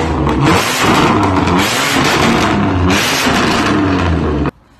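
BMW M4's twin-turbo straight-six, breathing through an Armytrix valved exhaust with the valves open, revved hard in about four surges that rise and fall in pitch. The sound cuts off suddenly near the end.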